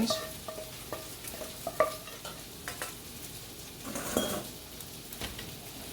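Chicken breasts sizzling steadily in a frying pan, with several short clinks of a metal utensil against the pans and a louder scrape about four seconds in as the sautéed onions are drained.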